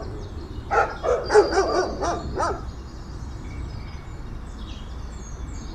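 Dog barking: a quick run of short barks in the first two and a half seconds, then only faint background.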